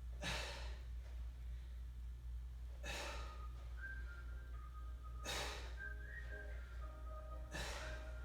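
A person breathing out hard four times, about every two and a half seconds, from the exertion of squat exercises, over faint background music.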